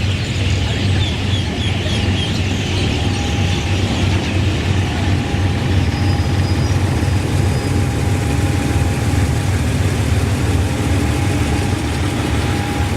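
A train's diesel engine running steadily at low speed, a deep continuous hum. A few bird chirps sound about a second in.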